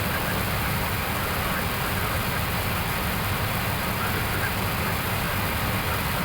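Steady rushing cabin noise on the flight deck of an Airbus A321neo in flight, even and unbroken, with a heavy low rumble beneath.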